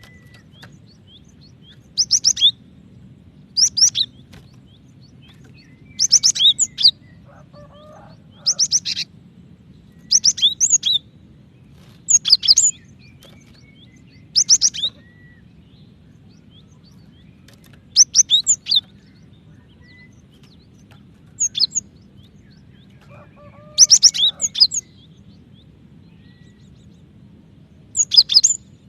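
Female cinereous tit calling: about a dozen short bursts of rapid, high chirping notes, one every two to three seconds with pauses between. It is the female's call to a male, used to set other tits calling.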